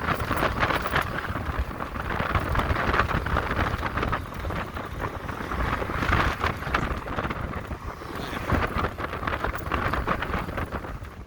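Wind buffeting the microphone of a rider on a moving electric motorcycle: a loud, uneven rushing with constant flutter.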